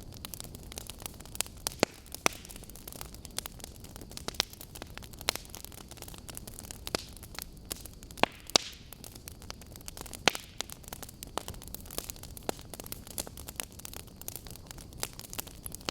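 Wood fire of burning logs crackling, with irregular sharp pops and snaps, several of them louder, over a steady low hiss.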